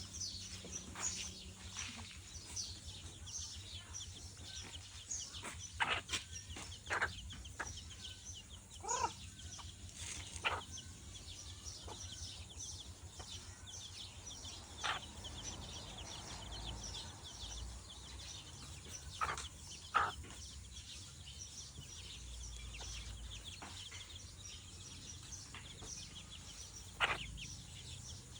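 Chickens clucking now and then, single calls a few seconds apart, over a constant patter of small high chirps.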